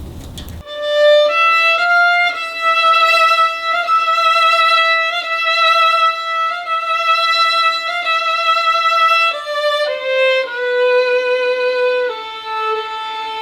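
Solo violin playing a slow melody of long held notes, coming in abruptly just under a second in. The melody steps down in pitch over the last few seconds.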